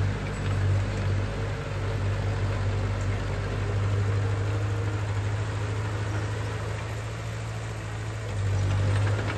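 Heavy diesel engine of earthmoving machinery running steadily with a deep hum, growing louder for a moment near the end.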